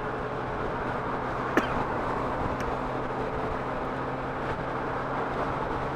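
Honda Gold Wing motorcycle riding on the highway: a steady engine hum under wind and road noise. A short sharp click comes about a second and a half in.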